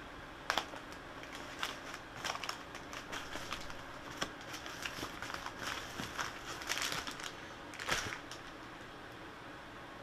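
Packaging being handled and opened: irregular crinkling and rustling, with a few sharp clicks and snaps.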